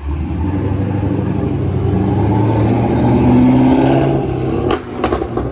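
Car engine under acceleration: a loud, low drone that starts suddenly and rises a little in pitch. It falls away near the end, with a few sharp clicks.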